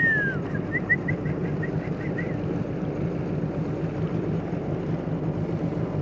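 Jet ski engine idling steadily with a low hum. In the first two seconds a high whistle falls in pitch, followed by a run of about a dozen quick high chirps.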